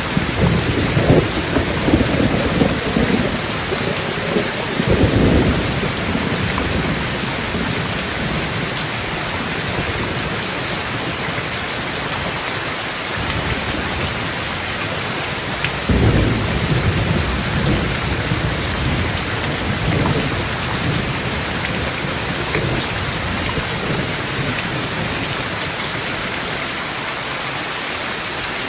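Steady heavy rain hissing, with rolls of thunder rumbling low in the first few seconds, again about halfway through, and more faintly a few seconds later.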